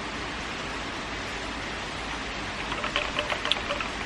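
Steady heavy rain making an even hiss, with a few faint clicks about three seconds in.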